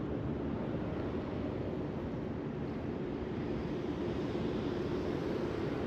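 Steady low rumbling background noise with a faint hum running through it.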